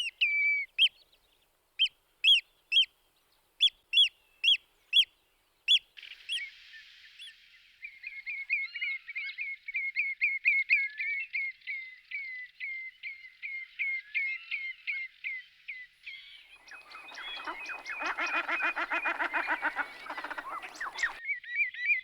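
Whimbrel calling: loud, separate whistled notes at first, then long runs of quick notes. From about three quarters of the way in, a denser, lower burst of rapid notes lasts about four seconds before the whistled notes return.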